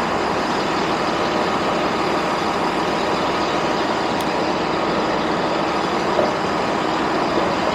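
Steady, even noise of a passenger train, with no distinct knocks or announcements.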